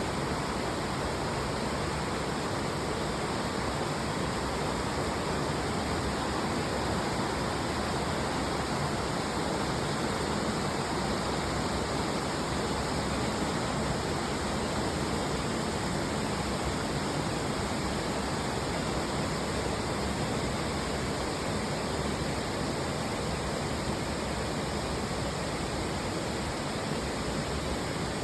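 Arasawa Ōtaki waterfall: falling water rushing with a steady, unchanging roar.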